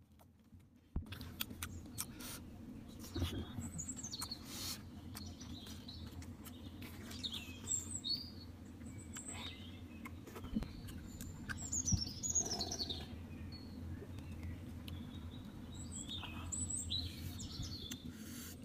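Forest birds chirping and whistling, with short falling and sweeping calls throughout, over a low steady rumble and a few sharp clicks.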